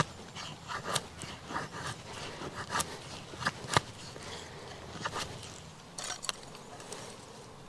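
Wood being worked with a blade: irregular scraping cuts and sharp clicks, a dozen or so, thinning out near the end.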